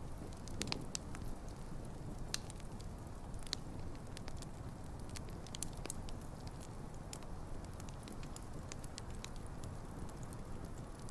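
Wood campfire burning: a steady low rumble of flames with frequent sharp crackles and pops from the logs, a few louder pops in the first few seconds.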